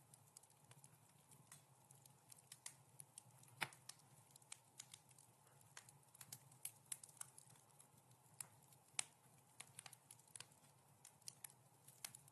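Wood fire crackling softly: irregular sharp pops and snaps, several a second, over a faint steady low background, with two louder pops about a third of the way in and again around three-quarters through.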